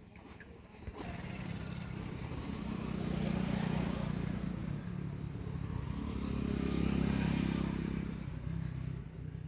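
A motor vehicle engine running by, getting louder twice, about three seconds in and again around seven seconds, then fading near the end.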